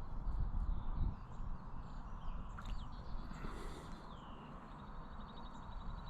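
Small birds chirping, with a quick trill near the end, over a steady low rumble.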